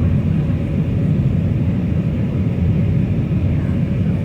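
Steady low rumble of an Airbus A319 airliner's cabin in flight: engine and airflow noise heard from inside, with a faint steady hum above it.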